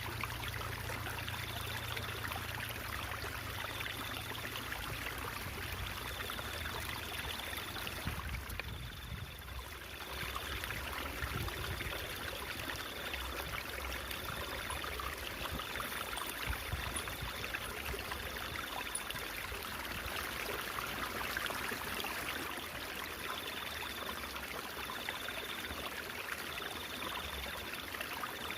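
Stream water trickling and babbling steadily. A faint high tone comes and goes in short pulses about once a second, pausing for a few seconds after the middle.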